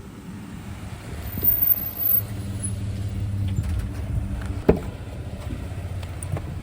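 A motor vehicle's engine running with a low steady hum, and a single sharp knock a little past halfway.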